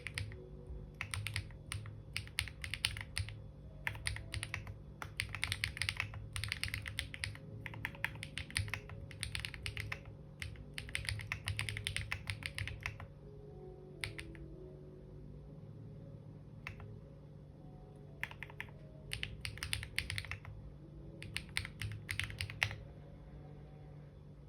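Typing on a computer keyboard in quick runs of key clicks, stopping for a few seconds in the middle with only a stray keystroke or two, then starting again.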